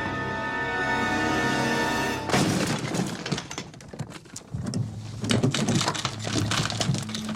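Film soundtrack: music with held notes that cuts off about two seconds in, followed by a rapid jumble of crashes, thuds and breaking sounds from a slapstick scuffle.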